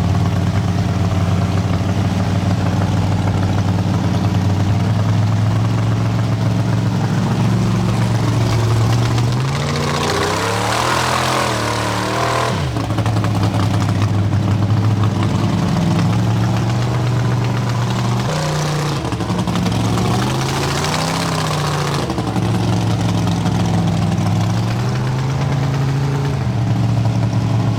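A vehicle engine running at a steady idle, its revs rising and falling a few times, most strongly about ten seconds in and again near twenty seconds.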